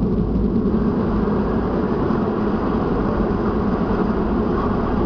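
Steady low rumble of a Boeing 757's engines and airframe, heard from inside the passenger cabin, strongest in a low hum.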